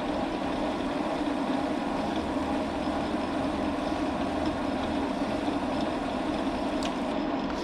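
Metal lathe running steadily.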